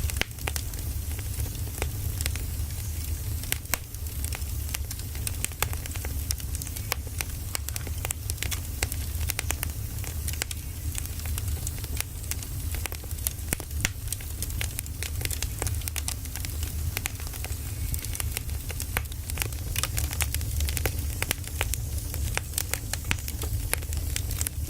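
Firewood burning, with frequent irregular crackles and pops over a steady low rumble.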